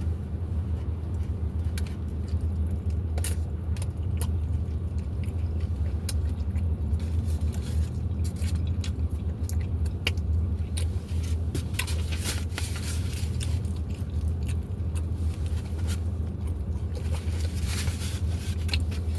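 A person eating close to the microphone: chewing, with scattered short mouth clicks and crackles, over a steady low hum.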